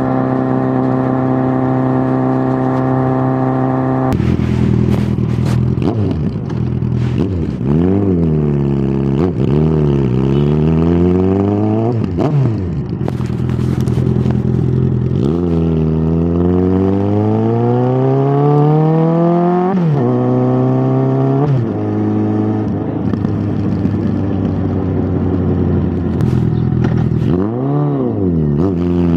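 Suzuki GSX650F inline-four engine running through an aftermarket Tiger exhaust, steady at first. About four seconds in it drops, then swings repeatedly down and up in revs, including a long climb that cuts off sharply, then runs more steadily before another dip near the end.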